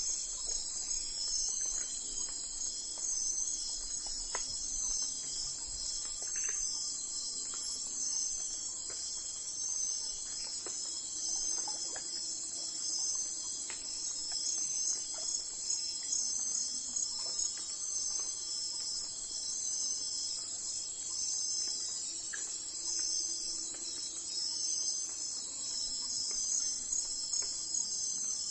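Steady chorus of crickets chirping in an even, pulsing rhythm, high-pitched and continuous, with a few faint short ticks and chirps scattered through it.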